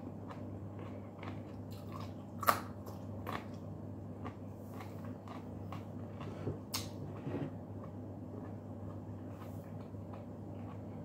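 Raw carrot sticks being bitten and chewed, with a few sharp crunches, the loudest about two and a half seconds in and another near seven seconds, over a steady low hum.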